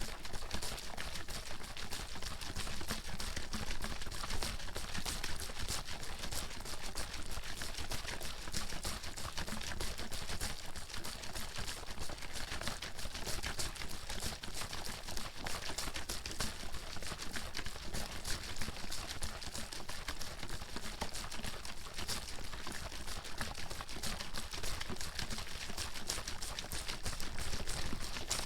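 Water bottle being shaken continuously, the water sloshing and splashing inside in a dense run of rapid splashes and knocks.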